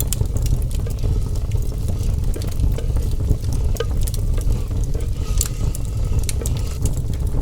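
A wood cooking fire crackling, with scattered sharp pops over a steady low rumble.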